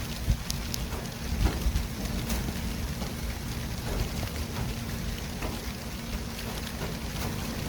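City street traffic ambience: a steady low rumble and hiss of passing vehicles, with a few short knocks in the first two seconds.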